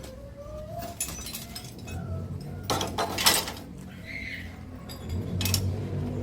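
Pieces of scrap metal clinking and clattering as they are handled and dropped, with several sharp clinks, the loudest about three seconds in.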